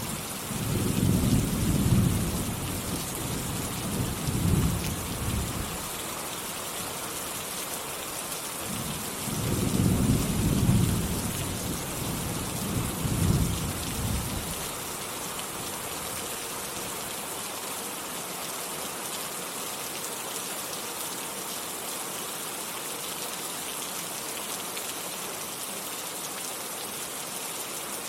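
Steady heavy rain with two long rolls of thunder, one right at the start and another about nine seconds in, each lasting several seconds. Afterwards only the rain continues.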